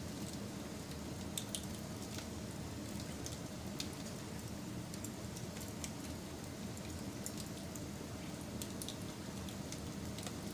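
Wood fire burning, with a steady low rush of flames and scattered sharp crackles and pops.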